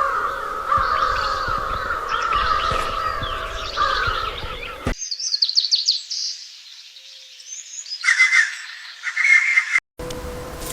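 Songbirds chirping and singing, with many overlapping calls. About halfway through it cuts abruptly to a different recording of quick, high trills and short chirps, then a brief dropout near the end.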